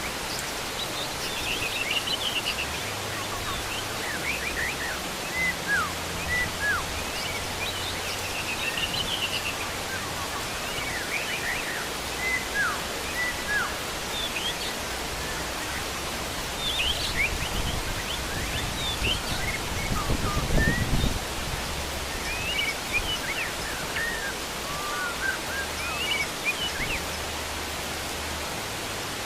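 Steady heavy rain with wild birds chirping and whistling over it throughout, in short rising and falling calls. A low rumble swells and fades about two-thirds of the way through.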